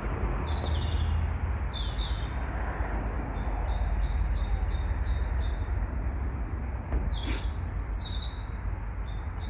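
Small birds chirping: a few short falling calls, and in the middle a run of quick repeated high two-note phrases, over a steady low rumble.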